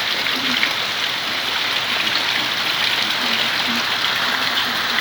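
Heavy rain falling steadily, an even, constant hiss.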